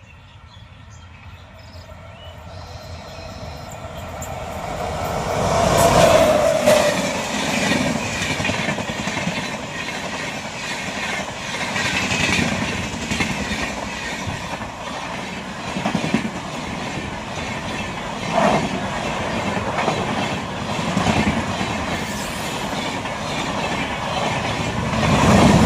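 Indian Railways express passenger train passing at about 130 km/h. The sound builds from faint to a peak about six seconds in as the locomotive goes by, then the coaches rush past with rhythmic wheel clatter over the rail joints.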